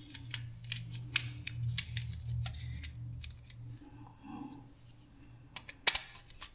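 Rapid small clicks and snips of hand tools and plastic parts while a wall socket is being wired, over a low hum for the first three seconds; a few more sharp clicks come near the end.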